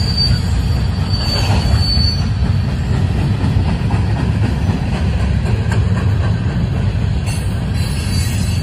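Freight train cars rolling past: a steady rumble of steel wheels on rail, with a thin high wheel squeal coming and going in the first two seconds.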